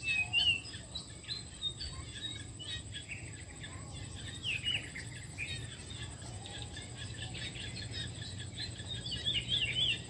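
Small birds chirping and twittering with many short, quick notes, busiest just after the start and again near the end, where one bird gives a fast run of rising-and-falling notes.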